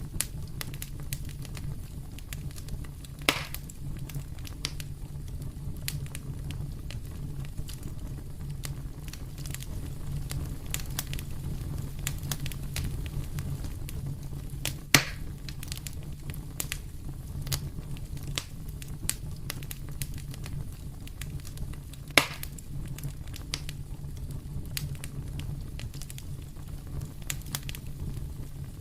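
Wood fire in a fireplace crackling steadily over a low rumble, with many small snaps and three louder pops.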